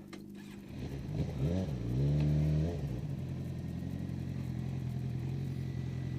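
Sport-bike engine idling, revved briefly about a second and a half in, then held at higher revs for about a second before dropping back to a steady idle.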